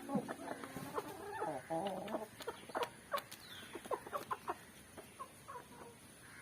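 Aseel game fowl clucking: a string of short calls and clicks, busiest in the first few seconds and thinning out after that.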